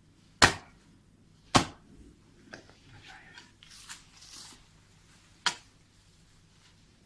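Sharp, heavy blows of a hand tool: two about a second apart near the start and another about five and a half seconds in. Fainter scraping and rustling in between.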